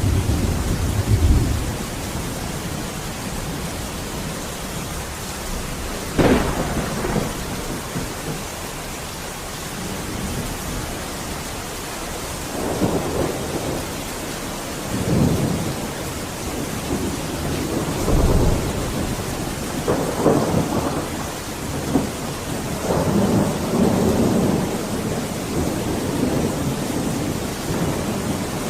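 Heavy rain falling steadily during a thunderstorm. A sharp thunderclap comes about six seconds in, and several rolls of thunder rumble through the second half.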